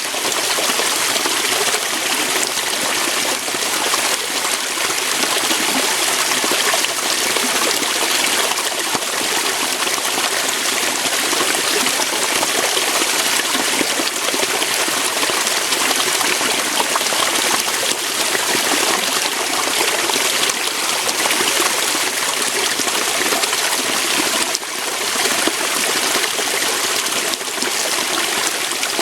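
Waterfall: water flowing steadily over rocks, an even, unbroken splashing.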